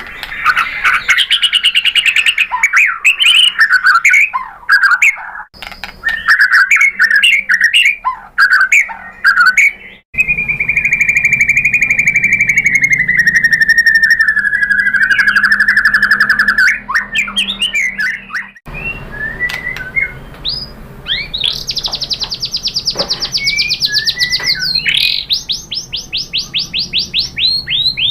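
White-rumped shama singing loudly: quick varied whistles and chatter, then a long rapid trill slowly falling in pitch, then buzzy high rattles near the end. The song breaks off abruptly several times, as in a spliced recording.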